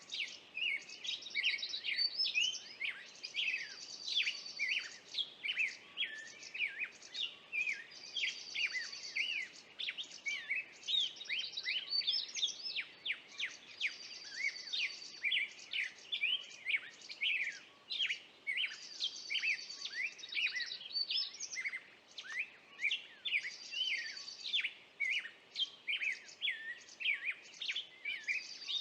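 Songbirds singing: many short chirps and quick sweeping notes, broken every few seconds by a high, rapid trill.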